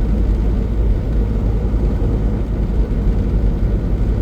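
Semi-truck driving down the highway, heard from inside the cab: a steady low rumble of engine and road noise that does not change.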